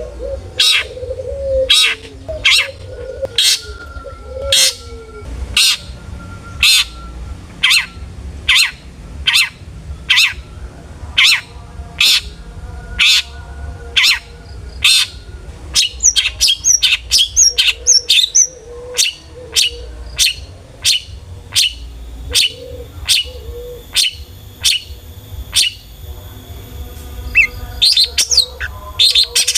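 Long-tailed shrike (cendet) calling in a steady series of sharp, evenly spaced notes, about one and a half a second, broken about halfway through by a quicker run of high chirps.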